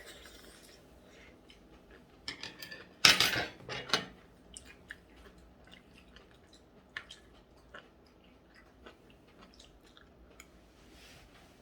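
Eating at a table: chewing with scattered light clicks of cutlery and dishes, and one louder noisy burst about three seconds in.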